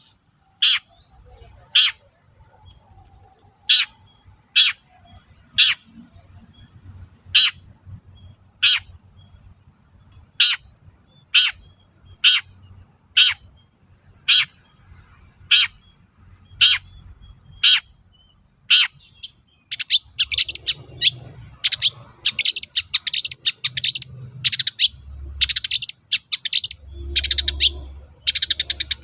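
Long-tailed shrike (cendet) calling: sharp, harsh single notes repeated roughly once a second, then about two-thirds of the way in it breaks into fast, dense chattering song.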